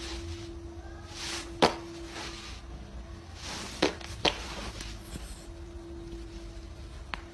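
Quiet room noise: a steady low hum with a few sharp clicks or taps, three of them standing out.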